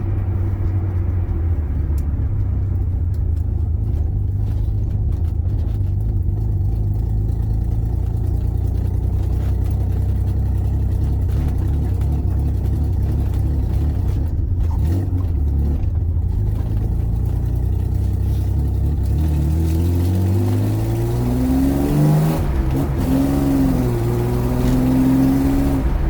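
BMW E36's swapped M50B25 inline-six breathing through a full exhaust: a steady low drone while cruising, then from about 20 seconds in the engine note climbs in pitch, drops and climbs again as the car accelerates. The engine runs on an untuned ECU, and its power delivery is not smooth.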